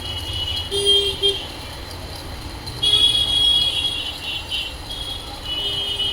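Vehicle horns tooting in short blasts over a low traffic rumble, loudest about a second in and again from about three seconds.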